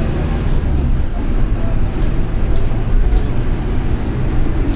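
Mercedes-Benz OF-1722M bus's turbodiesel engine running with a heavy, steady low rumble as the bus is under way.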